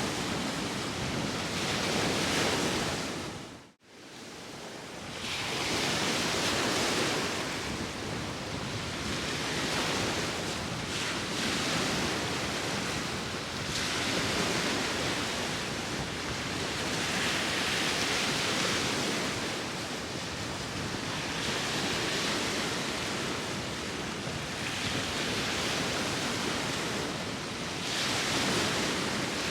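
Sea waves washing onto the shore with wind, the noise swelling and easing as each wave breaks, every few seconds. About four seconds in, the sound drops out almost completely for a moment, then fades back in.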